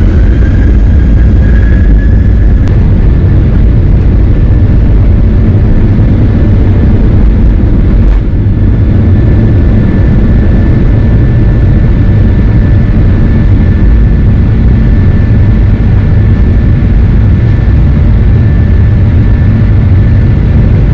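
Jet airliner's engines running, a loud, steady rumble with a faint high whine that rises slightly in the first two seconds and then holds steady.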